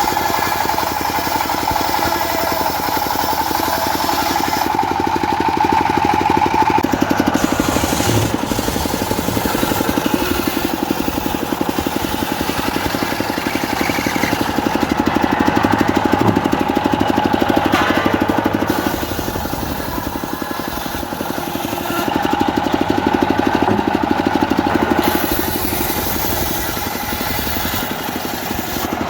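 Diesel engine running steadily with an even, rapid pulse, driving a homemade circular saw rig, with a high whine from the saw that grows stronger and weaker as it works.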